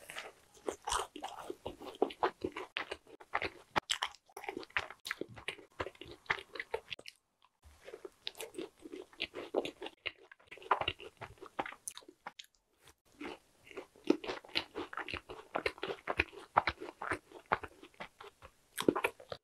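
A macaron being bitten and chewed close to a clip-on microphone: a dense run of small crunches and moist, sticky mouth clicks as the shell and cream filling are eaten, with two brief pauses, one about a third of the way through and one about two-thirds through.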